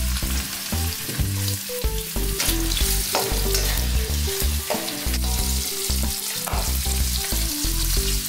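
Raw shrimp sizzling in hot garlic-chili oil in a stainless steel wok, stirred with a slotted spatula that clicks against the pan now and then.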